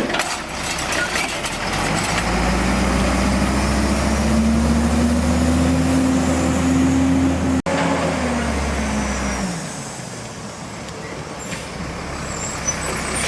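Automated side-load garbage truck's diesel engine revving up under hydraulic load, its pitch rising slowly for several seconds, then dropping back toward idle about nine seconds in.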